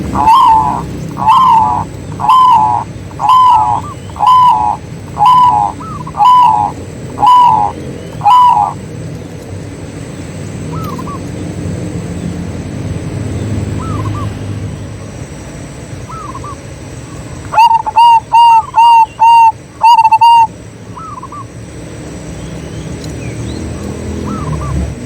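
Zebra doves cooing: a run of nine loud coos, about one a second, then softer coos further off. A quicker run of six coos, about two a second, comes around two-thirds of the way in, over a low background rumble.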